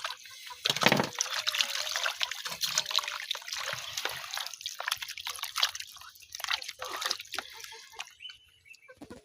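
Water trickling and splashing with irregular drips, thinning out near the end.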